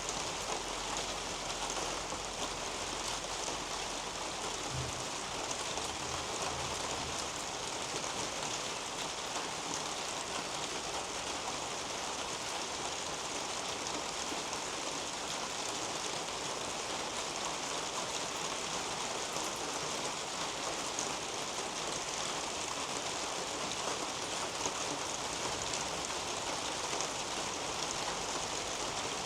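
Steady rain falling on leaves and a roof above, a dense even patter with drips trickling through foliage onto soil.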